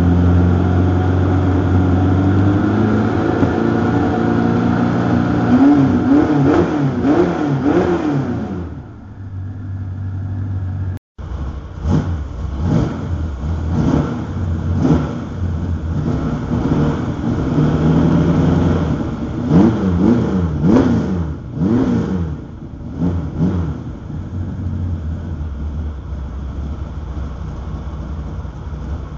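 350 V8 with 180-degree headers and Dr. Gas FreqMod frequency-modifying mufflers, idling and being revved in quick throttle blips. There is a run of blips, a brief break, then another series of blips, and then it settles back to a steady idle.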